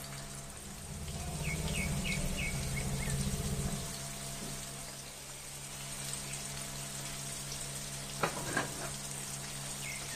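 Mutton koftas frying in oil in a stainless steel wok, a steady sizzle, with two sharp knocks about eight seconds in.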